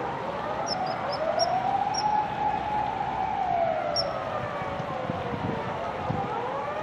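A distant emergency-vehicle siren wailing, its pitch slowly rising and falling. Several short, high bird chirps come through over it in the first two seconds and once again about four seconds in.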